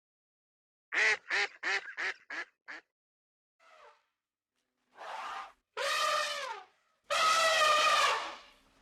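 Duck quacking: a quick run of six quacks, each shorter than the last, then after a pause three longer calls.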